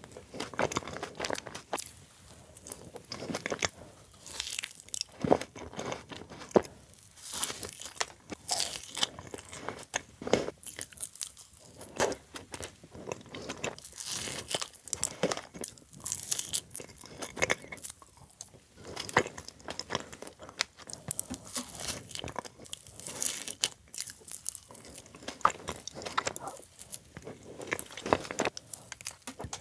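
Close-miked eating of sweets: repeated crunchy bites and chewing, irregular and crisp throughout.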